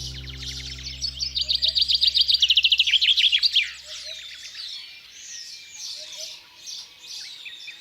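Songbirds singing: a fast trill of repeated high notes starting about a second in, dropping in pitch as it ends, followed by scattered high chirps. Soft background music fades out over the first few seconds.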